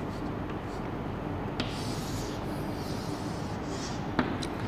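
Chalk scratching on a blackboard as words are written, with two sharp taps of the chalk on the board, the second near the end, over a steady background hiss.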